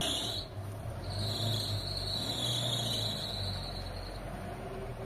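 Car engine running at low revs with a steady low hum. A high, thin steady tone sounds over it from about a second in until about four seconds in.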